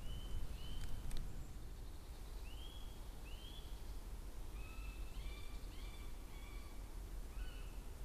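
Woodland birds calling: short, arched whistled notes, singly and in pairs, then a quicker run of overlapping notes about halfway through.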